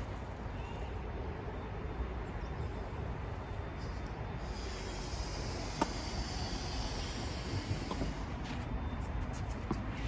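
Steady outdoor background rumble with a few short, sharp knocks, the clearest about six seconds in.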